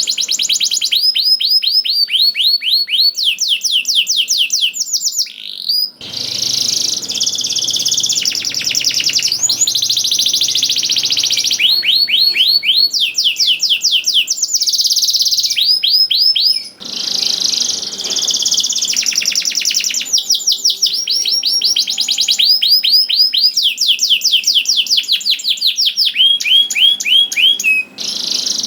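Domestic canary singing continuously in long, rapid trills of repeated high notes, one run of notes following another with only brief breaks.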